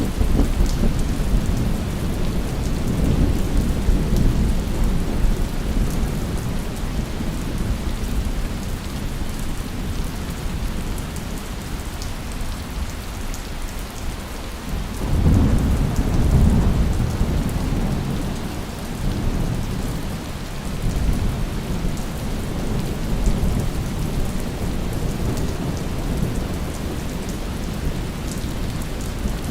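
Steady heavy rain with rolling thunder. A rumble fades over the first couple of seconds, and another breaks about halfway through and rumbles on for several seconds.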